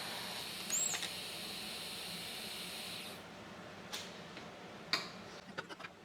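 A steady hiss that cuts off about halfway through, followed by a few sharp knocks and clicks.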